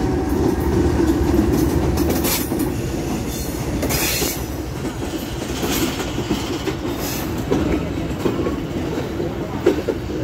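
A Pakistan Railways diesel locomotive and its passenger coaches rolling past close by with a steady rumble. The wheels clatter with occasional sharp knocks over the rail joints.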